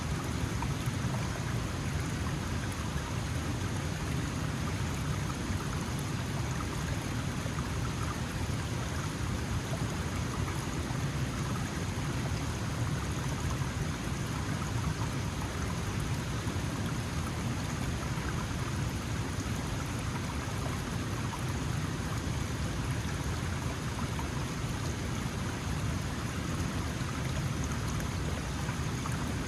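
Small mountain stream flowing steadily, water rushing and babbling over stones.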